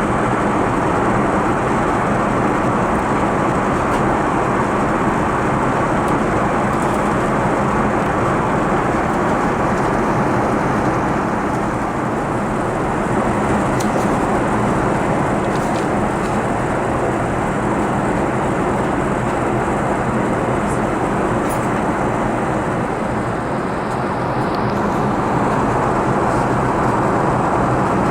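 Steady engine and airflow noise heard inside the cabin of an Airbus A380-841 with Rolls-Royce Trent 970 engines, with a few faint clicks.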